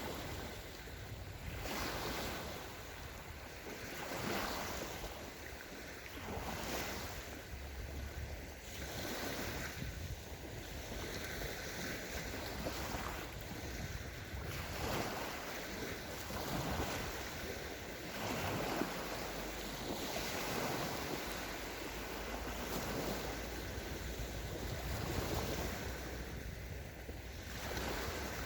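Small sea waves breaking and washing up a sandy shore, one after another about every two seconds, with wind rumbling on the microphone.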